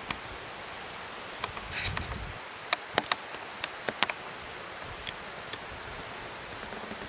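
Wood fire crackling: a steady hiss of flames with irregular sharp pops and snaps, most of them bunched in the middle.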